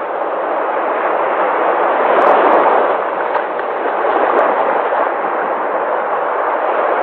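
Sea waves breaking on the shore, a steady rush of surf that swells a little about two seconds in.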